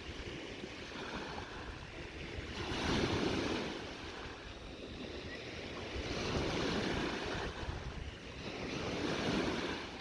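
Small lake waves washing onto the shore of Lake Huron, swelling and falling back about every three seconds, with some wind on the microphone.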